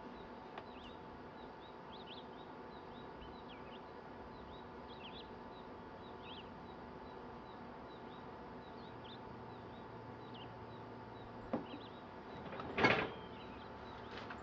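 Faint chirps of small birds over a steady low hum, broken by a light knock and then, about a second later, a louder short clatter.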